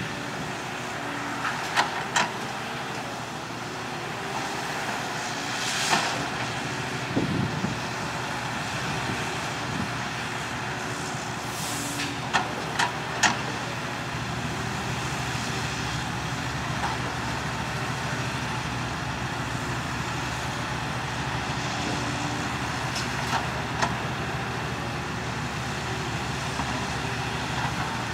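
Heavy diesel engines of a Cat 312CL excavator and a Kenworth T800 dump truck running steadily during loading. A few sharp knocks and clanks and brief air hisses break in at intervals.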